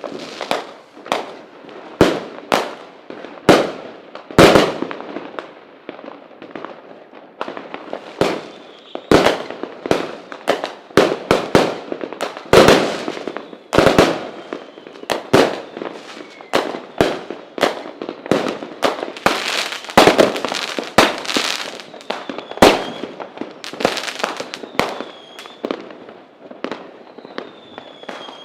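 Fireworks display: a dense, irregular barrage of sharp bangs from bursting shells, several a second at times, with a faint whistling tone in the last few seconds.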